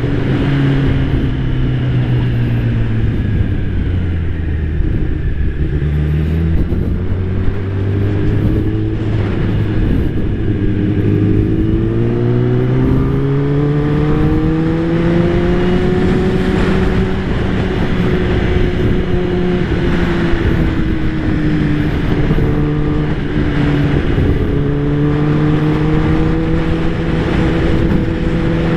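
Kawasaki ZX-10R's inline-four engine running on the move, its revs rising and falling with the throttle, over wind noise.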